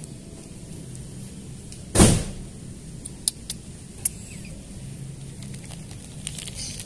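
A vehicle engine running steadily with a low rumble. About two seconds in there is a sudden loud thump, and a few short sharp clicks follow a second or two later.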